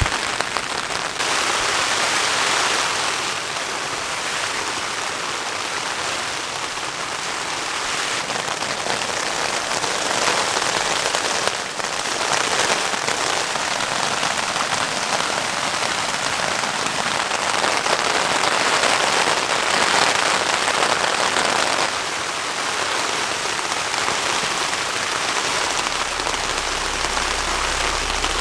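Steady heavy rainfall, a dense hiss that swells and eases in waves. A low rumble joins near the end.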